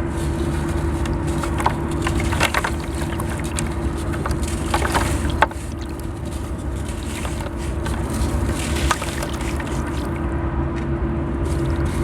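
Crispy sand blocks being crushed and crumbled, with scattered crackling and gritty crunches, heaviest about two and five seconds in, over a steady low hum.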